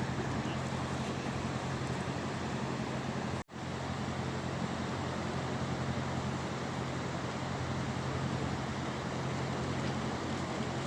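Steady outdoor ambience: an even wash of noise over a constant low hum, cut by a split-second dropout about three and a half seconds in.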